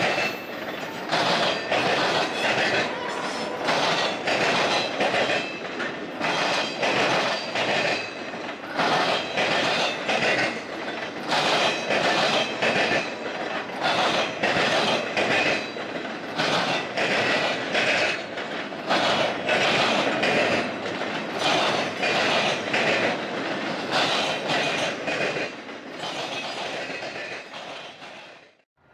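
Freight train of flatcars rolling past, its wheels clacking over rail joints in a steady repeating rhythm, with a light metallic wheel squeal at times. The clatter fades away near the end.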